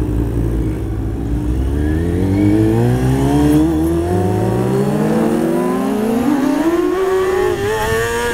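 Sport motorcycle engine pulling away from a stop, its revs climbing steadily for several seconds under hard acceleration, then dropping suddenly near the end at an upshift, with wind rushing past.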